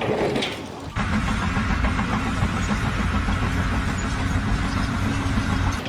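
An engine running steadily, starting abruptly about a second in.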